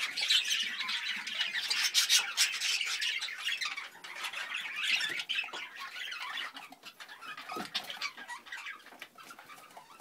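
Budgerigars chattering: a busy mass of short chirps and warbles, thickest in the first few seconds and thinning out toward the end.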